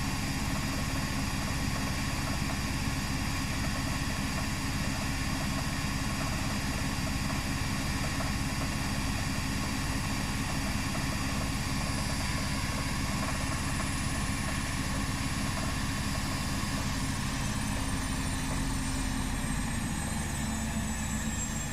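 Arctic AFD 1000A+ washing machine running its final spin at the end of the 39-minute quick-wash program: a steady hum with a high whine. The whine starts falling a few seconds before the end as the drum slows toward stopping.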